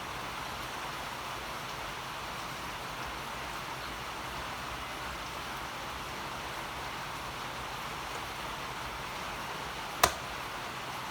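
Steady hiss, with one sharp click near the end.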